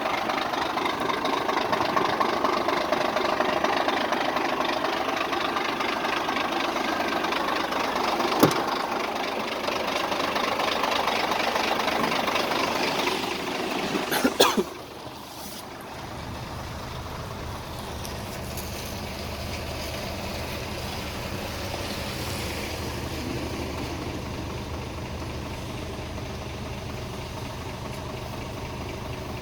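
Scania P114G 340 truck's six-cylinder diesel engine running. About halfway through there are a few sharp clicks, and after them it settles into a quieter, steady low idle.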